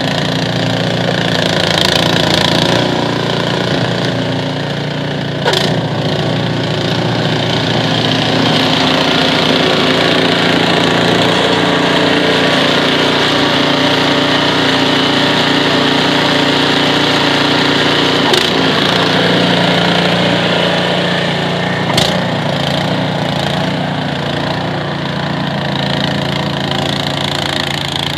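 Snowblower's small engine running steadily, with a few sharp knocks.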